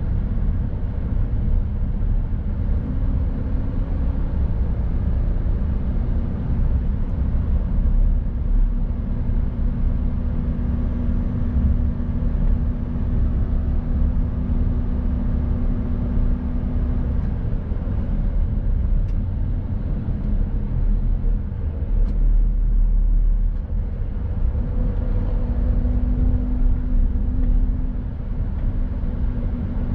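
Mercedes-Benz Actros truck driving along, its diesel engine and the road noise making a steady low rumble. An engine hum rises over the rumble a few times and fades again.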